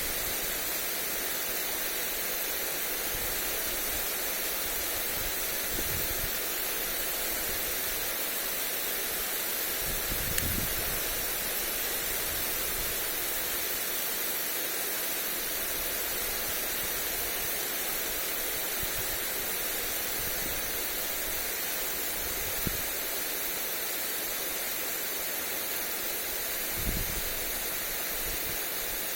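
Lawn sprinkler spraying water onto grass: a steady, even hiss of falling spray. A few brief low thumps of wind buffet the microphone.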